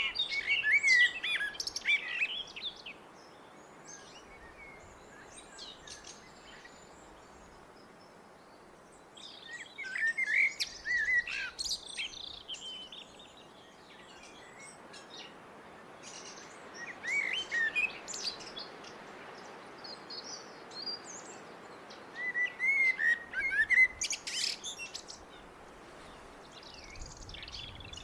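Blackbird singing: four separate warbling phrases with pauses of several seconds between them. Each phrase has lower fluted notes followed by higher, squeakier twittering.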